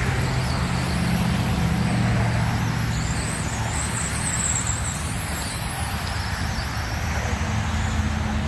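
Radio-controlled race cars running laps on an oval track, their motors giving a high whine that rises and falls as they accelerate and lift off through the turns, over a steady low hum.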